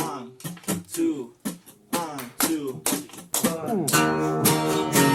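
Guitar playing the song's intro: separate plucked notes that slide down in pitch, then strummed chords ringing on together from about four seconds in.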